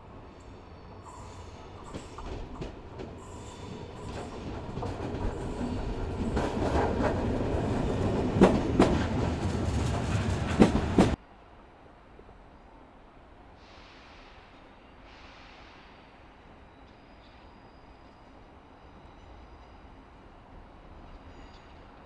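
A train rolling past close by, growing louder, its wheels clicking over the rail joints with some squeal, until the sound cuts off suddenly about halfway through. A much quieter background follows, with two short hisses.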